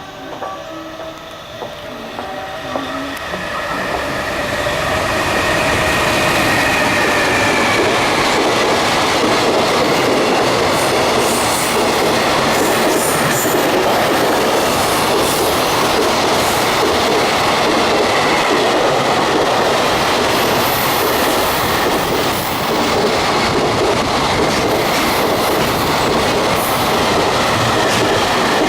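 Freight train hauled by an EF210 electric locomotive passing through a station without stopping. It grows louder over the first few seconds, with a brief high whine as it draws level, then a long loud steady rumble and clatter of the freight wagons' wheels going by.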